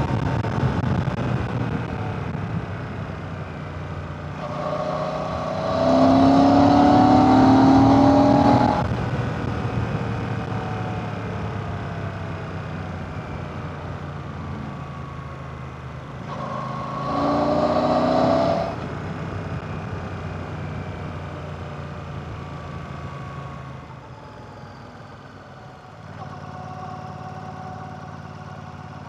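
Royal Enfield Classic 650's 648cc air/oil-cooled parallel-twin engine under way: twice the throttle opens and the engine note climbs for a few seconds, with long stretches of the pitch falling away as it slows between them. Near the end it drops to a quieter, steady low note.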